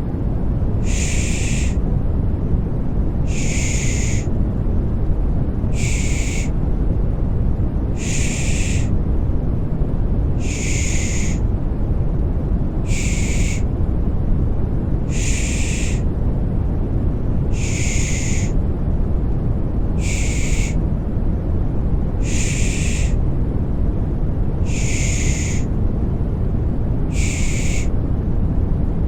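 Rhythmic 'shh' shushing (pış pış) for soothing a baby, one soft hiss about every two and a half seconds, over steady deep white noise.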